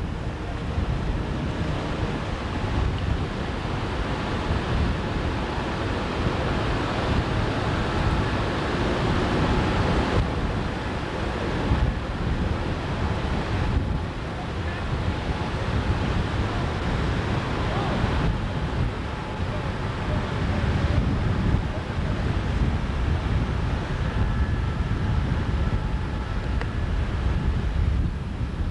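Wind buffeting the microphone over the steady wash of water, a continuous low rumbling noise.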